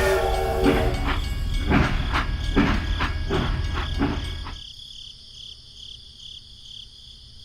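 A rhythmic chugging machine sound, a knock about every half second over a low rumble, stops abruptly about two-thirds of the way through. Crickets chirp steadily, pulsing, in the quiet that remains.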